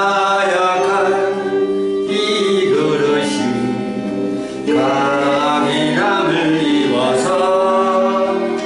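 Gospel praise song: a voice sings a slow melody over instrumental accompaniment.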